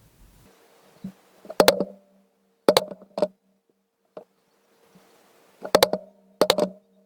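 A series of sharp knocks in an uneven rhythm, several in quick doubles, with a low ring hanging on between them: hammer-type blows in a workshop.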